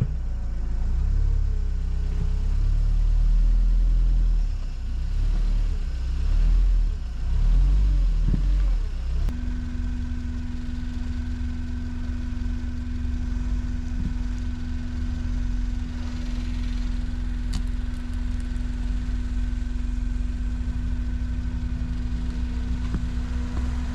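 ATV engine working under load, its rumble rising and falling unevenly for the first several seconds. From about nine seconds in it settles into a steady, even engine note.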